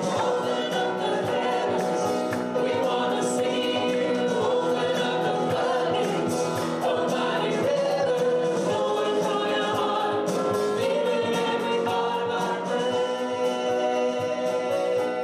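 Gospel worship song: a choir and congregation singing together over musical accompaniment with a steady beat.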